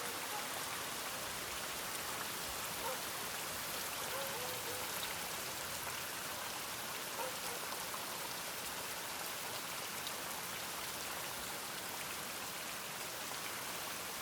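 Steady rain falling, an even hiss of drops without letup, with a few faint brief pitched sounds in the background.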